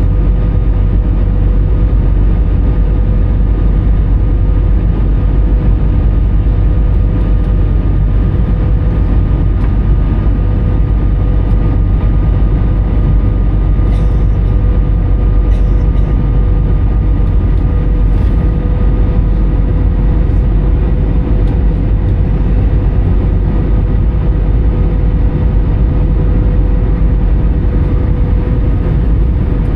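Airbus A320 cabin noise in flight: a steady, loud rumble of airflow and CFM56 engine noise with a constant whine held at one pitch.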